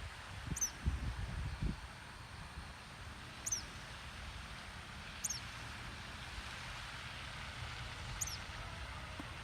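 A bird repeating a short, high, downward-slurred call every two to three seconds, over a steady outdoor hiss. A few low thumps come in the first couple of seconds.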